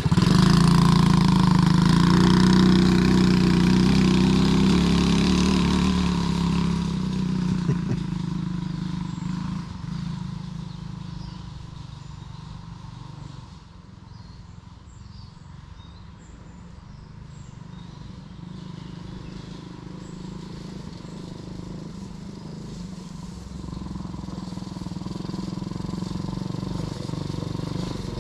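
Quad bike engine running, loud at first, then fading over about ten seconds as it moves off. It becomes slowly louder again toward the end.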